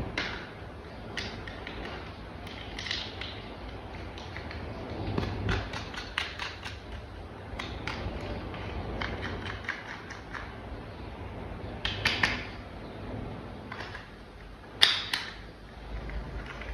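Plastic toy vehicle parts being handled and snapped together: scattered clicks and taps, with a quick run of clicks about six seconds in and a sharper snap near the end.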